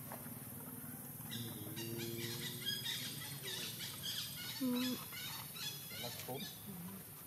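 Small birds chirping and twittering in quick, varied phrases. A brief low call is heard about halfway through and is the loudest moment.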